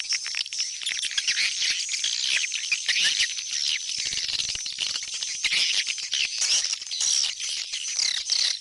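A dense chorus of swiftlet chirps and twitters, high-pitched and continuous with many quick clicks. It is the kind of call recording played to lure swiftlets back into a swiftlet house.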